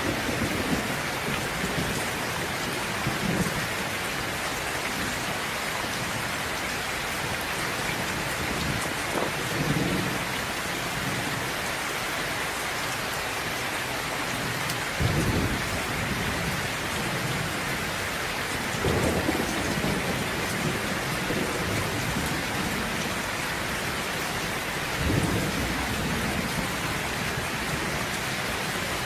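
Steady rain falling, with about half a dozen low rolls of thunder rumbling through it, the strongest ones about halfway through and near the end.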